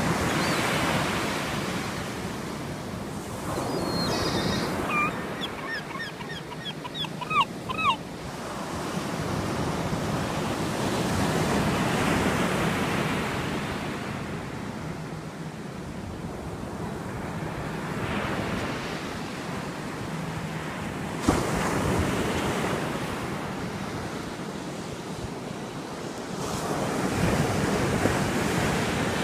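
Ocean surf washing up and drawing back on a beach, swelling and fading every several seconds.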